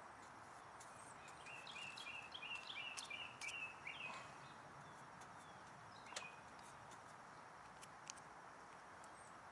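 Faint bird song: a quick series of about eight short, high chirps from about one and a half to four seconds in. Two light clicks follow later.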